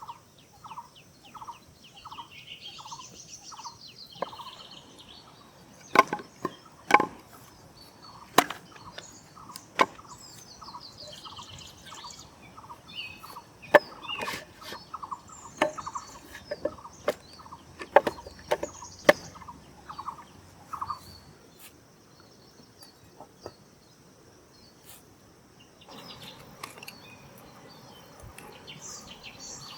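Birds calling in the background, one repeating a short note about twice a second until about two-thirds of the way through, with higher chirps from others. Sharp knocks now and then, several close together in the middle, fit chopping.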